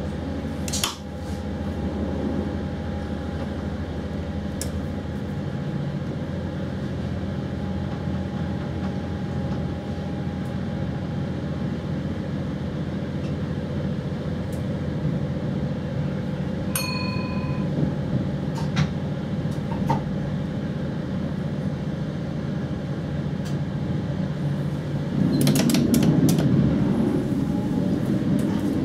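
Running noise inside an electric train's driver's cab as the train accelerates from standstill: a steady hum from the traction equipment and running gear with a faint fixed whine. A short electronic tone sounds a little over halfway through, and the rumble grows louder near the end.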